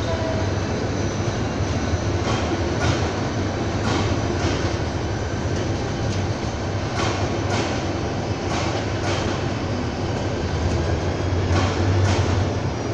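Intercity passenger coaches of the Lalmoni Express rolling past on the rails, with a steady low rumble and wheels clicking over rail joints, often in close pairs.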